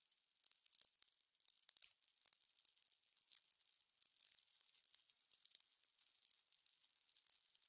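Fire crackling: irregular sharp pops and snaps, several a second, over a soft high hiss.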